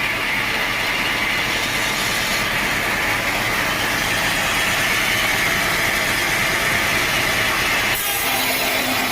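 Sawmill saw cutting through a teak log: a steady, loud machine noise that changes abruptly about eight seconds in.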